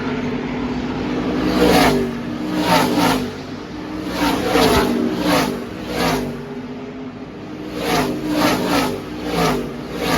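NASCAR Camping World Truck Series race trucks' V8 engines at racing speed passing one after another, about eight passes, each swelling and dropping in pitch as it goes by, over the drone of the rest of the field.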